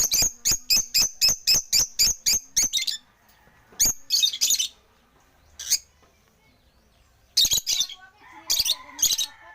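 African lovebirds calling: a fast run of sharp, high chirps, about five a second, for roughly three seconds. Then shorter bursts of chirps at intervals.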